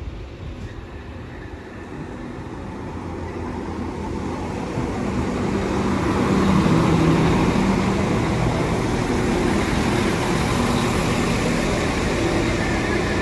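A Class 195 diesel multiple unit pulling into the station, its diesel engine and wheel rumble growing steadily louder over the first six seconds and then holding as it runs alongside the platform. A faint high whine starts near the end.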